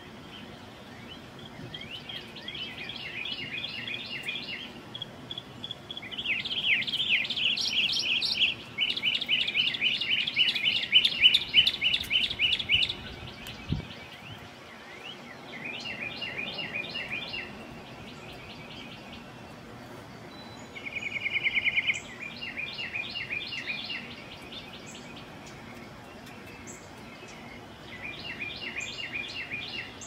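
Birdsong: a songbird sings phrases of fast, repeated chirping notes, each a few seconds long with pauses between them, loudest around the middle. A single low thump comes about halfway through.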